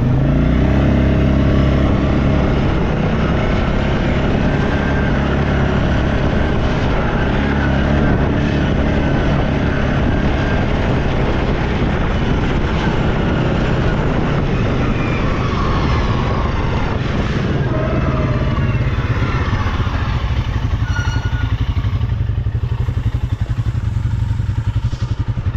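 ATV engine running under throttle, its pitch rising and falling with the load, settling to a steadier, lower note in the last few seconds.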